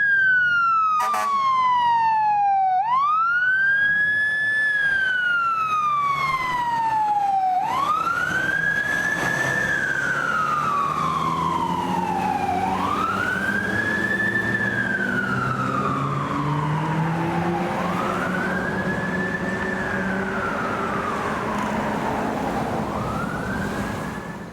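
Fire truck siren wailing, sweeping quickly up and gliding slowly down about every five seconds. Beneath it the truck's engine rises in pitch as it accelerates, with a short sharp sound about a second in.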